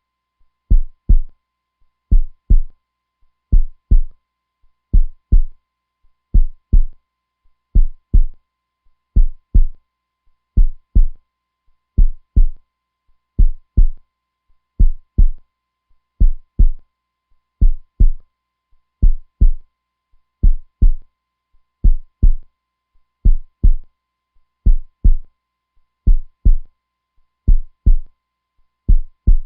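Heartbeat: low double thumps (lub-dub) repeating steadily, about one pair every second and a half.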